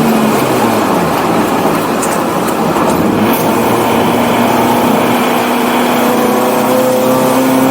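1984 BMW 318i's four-cylinder engine running hard at track speed: the revs drop over the first second or so, then climb steadily under acceleration.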